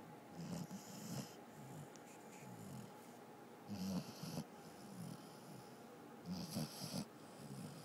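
Basset Hound snoring in her sleep, a rhythmic snore about every three seconds, three in all, with softer breaths between.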